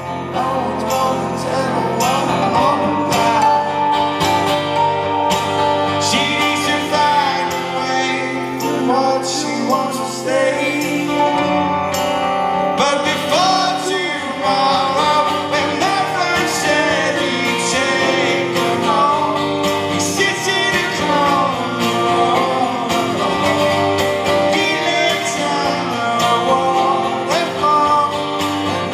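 Live rock band playing a song, with guitars and a male voice singing.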